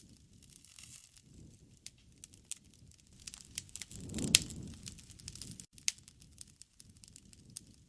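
Wood fire crackling: irregular sharp pops and snaps over a faint low rumble. Just after four seconds in there is a louder swell of flame noise with the loudest pop.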